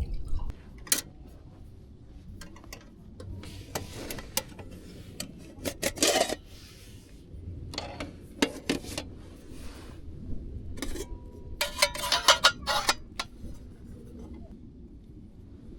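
Scattered clinks, rubs and clatter of cookware and utensils being handled, with a louder rattle about six seconds in and a quick run of clatters a little past the middle.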